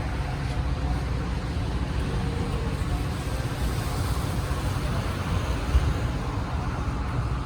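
Steady low rumble of an inbound Metra commuter train approaching the station, swelling slightly in the middle.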